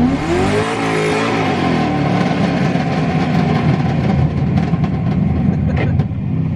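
LS2 V8 swapped into a Nissan 240SX, with long-tube headers and straight pipes after two high-flow cats, accelerating hard. Its pitch climbs through the first second, then falls back, and the engine keeps pulling loudly under load.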